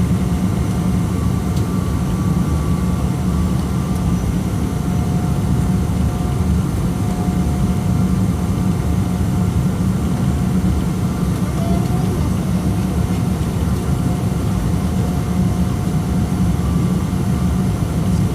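Boeing 777-200 cabin noise: a steady, loud low rumble with a faint, even whine above it.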